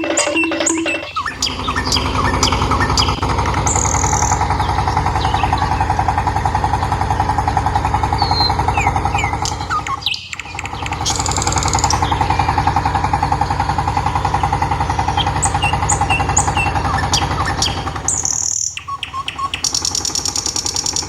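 Birds chirping and tweeting over a steady, buzzing mechanical hum. The hum cuts out briefly twice, about ten seconds in and again near the end.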